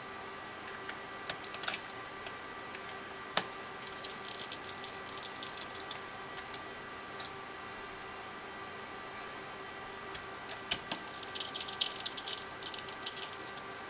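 Plastic clicks of TI-84 Plus calculator keys being pressed, a few scattered presses and then a quick run of them near the end, over a faint steady electrical hum.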